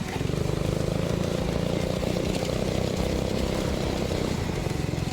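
Small go-kart engine running steadily at a constant speed.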